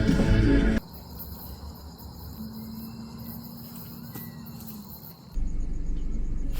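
Insects trilling in a steady, high, even tone, which cuts in suddenly after a moment of music and speech. About five seconds in it cuts to a low steady rumble.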